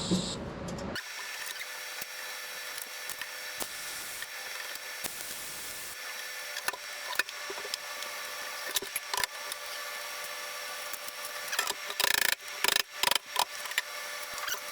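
TIG welding arc on sheet steel, a steady hiss with scattered crackles and a few louder bursts about twelve seconds in, as a patch panel is tacked and welded in.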